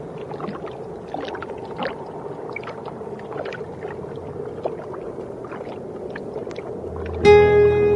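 Underwater ambience: a steady wash with many small scattered clicks and ticks. About seven seconds in, music with sustained notes comes in, louder than the ambience.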